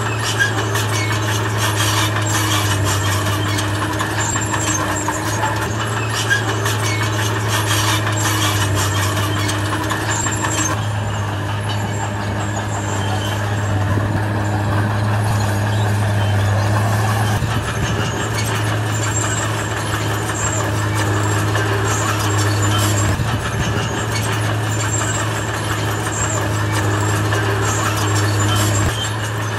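Bulldozer's heavy diesel engine working, a steady low drone, with frequent metallic clanks and scrapes from its tracks and the rock it pushes.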